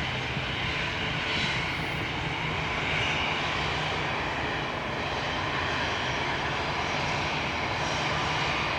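Airliner engines running, a steady noise with a low hum underneath.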